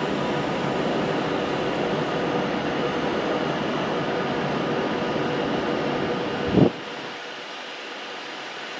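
Steady hum and hiss of electric trains standing at a large station's platforms. About two-thirds of the way in there is a brief sharp tone, after which the sound turns quieter and the low rumble drops away.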